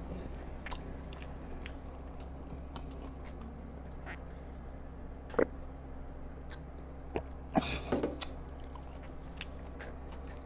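Close-miked mouth sounds of a person chewing food, with soft scattered clicks. A sharp knock comes about five and a half seconds in, and a short cluster of louder sounds follows around eight seconds, while he drinks from a glass.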